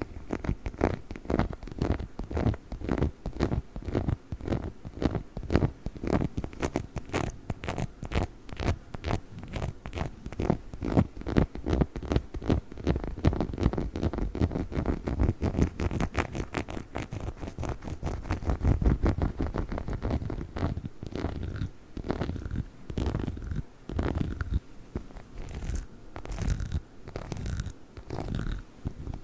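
Rapid scratching and tapping on a chicken-shaped dog toy: a dense run of quick clicks and scrapes, several a second, with no squeak.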